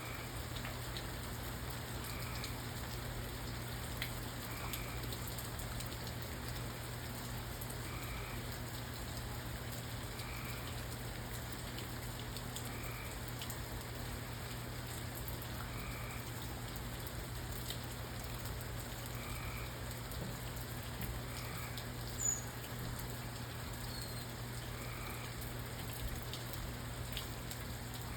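Steady rain falling, with scattered drips ticking. A short call repeats about every two to three seconds throughout, and one sharper tick stands out a little after twenty seconds.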